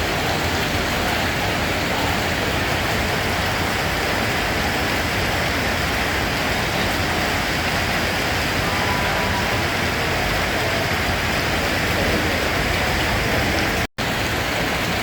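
Steady, continuous rain falling, an even hiss with no distinct drops standing out; it cuts out for an instant about a second before the end.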